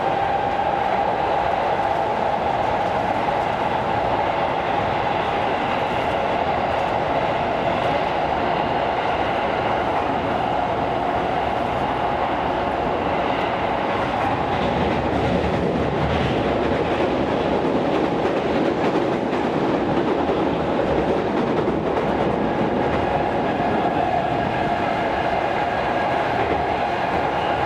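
Tokyo Metro Series 16000 subway train running at speed between stations, heard from inside the car: steady rolling and running noise with a steady hum. The low rumble grows heavier about halfway through, then eases.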